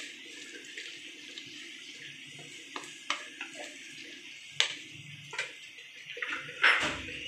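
Masala paste frying in a kadhai with a steady sizzle, while a wooden spatula stirs and scrapes through it and knocks against the pan several times, loudest near the end.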